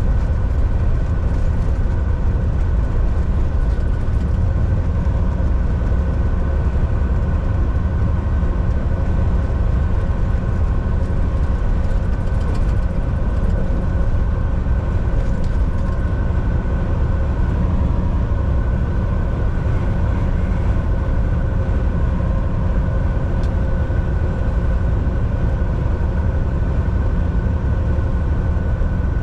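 Volvo VNL 760 semi truck cruising on the highway, heard from inside the cab: a steady low drone of engine and road noise with a faint steady whine over it.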